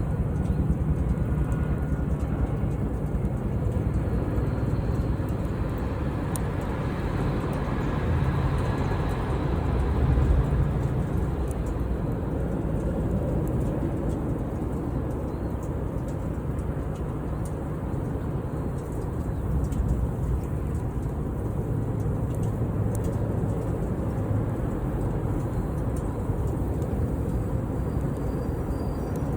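Campfire burning, with scattered small crackles and pops over a steady low rumble.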